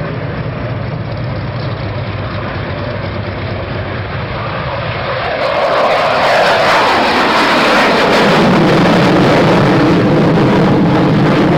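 Aircraft engines running loud as an aircraft flies past, the noise growing louder about halfway through, with a sound that slides lower in pitch.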